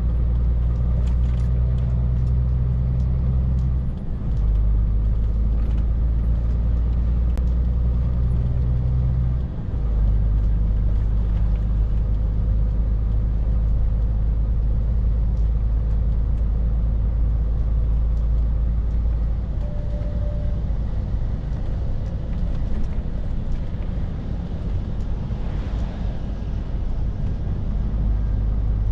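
Scania R450 truck's 13-litre six-cylinder diesel running steadily under way, a deep, even drone with two short dips about four and ten seconds in. After about twenty seconds the low note eases off.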